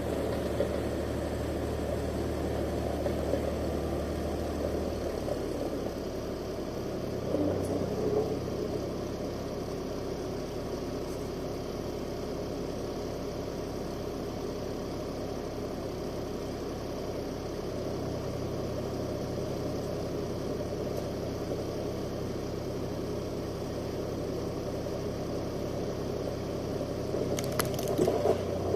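Steyr 540 tractor engine running steadily, its engine speed changing a couple of times. A few sharp knocks near the end.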